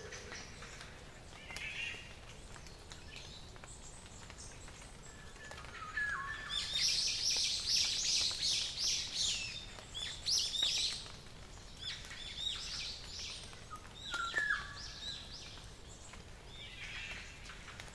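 Several wild songbirds singing. The loudest is a fast run of rapid high notes starting about six seconds in and lasting some five seconds, with shorter, lower whistled phrases before and after it.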